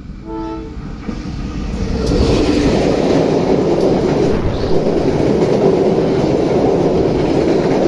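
A train horn sounds one short blast about half a second in. Then an Indonesian passenger train hauled by a diesel locomotive comes up and passes close by. The noise of its locomotive and its wheels on the rails grows loud over about two seconds and stays loud.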